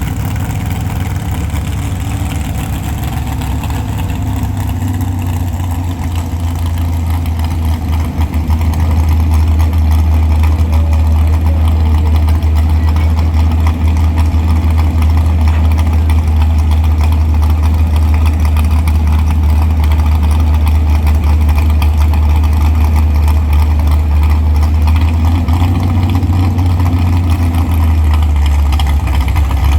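A pulling truck's engine running loud with a deep, steady drone, which grows louder about eight seconds in and holds there.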